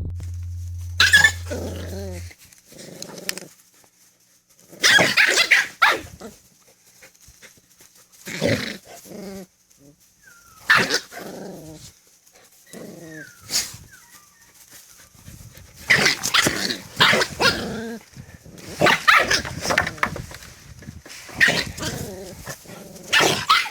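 Jindo dog barking and growling in a string of bursts with short pauses between them.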